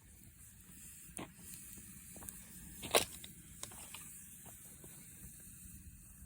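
Campfire wood crackling with scattered pops, the sharpest about three seconds in, over the steady high chirring of night insects.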